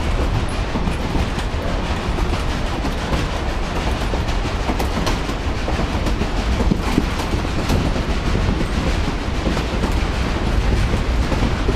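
Narrow-gauge railroad car rolling along the track, heard from an open gondola car: a steady rumble of wheels on rails with a few sharp clicks from the rail joints.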